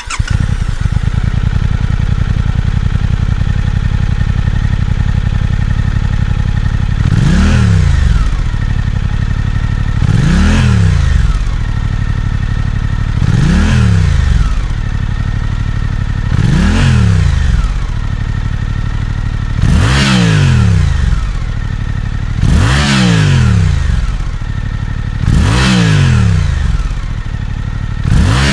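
Suzuki GSX-8T's 776 cc parallel-twin engine idling steadily just after starting, then blipped about every three seconds in eight short revs that rise and fall back to idle.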